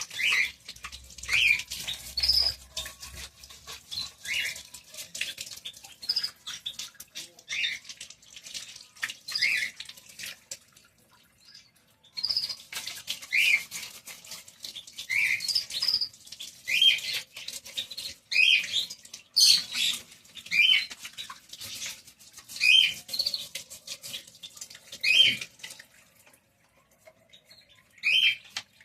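Small birds chirping over and over, short sharp calls every second or two with brief pauses, over a dry scratching texture between the calls.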